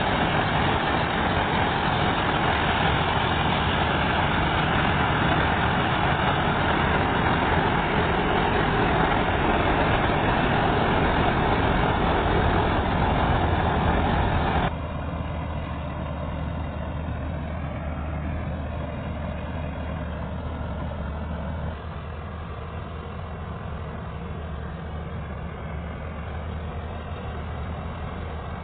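Chardikala combine harvester running, its engine and threshing machinery making a loud, dense din. About halfway through the sound drops abruptly to a quieter, steady low engine hum.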